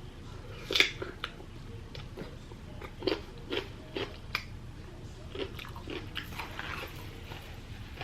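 Close-up mouth sounds of a person biting and chewing food, with irregular short crunchy clicks and smacks.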